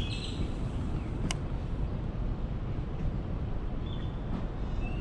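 Steady low outdoor rumble with a sharp click about a second in and a few brief high chirps near the start and the end.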